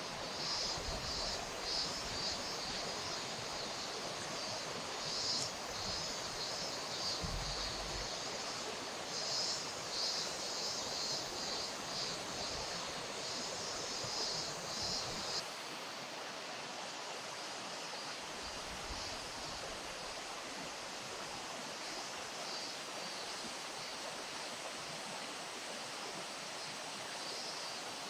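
River water flowing in a steady rush. Over it, a high pulsing shrill sound runs through the first half and stops abruptly about halfway through.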